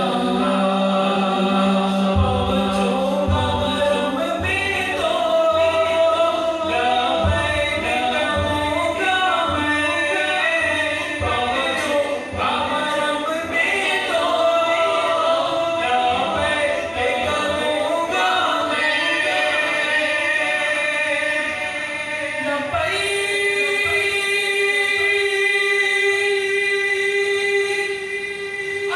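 A male voice sings a naat, an Urdu devotional song, without instruments. Under it runs a held, hummed vocal drone that steps up in pitch near the end, and an echo effect is on the voices.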